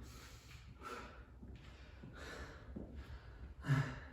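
A man breathing hard after an exercise set, several heavy breaths in and out, with a louder voiced exhale near the end.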